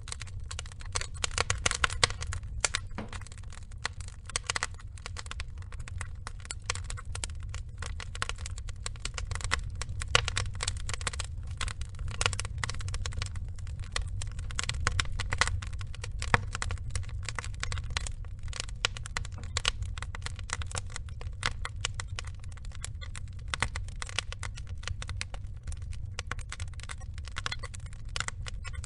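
Burning wooden logs crackling: dense, irregular pops and snaps over a steady low rumble.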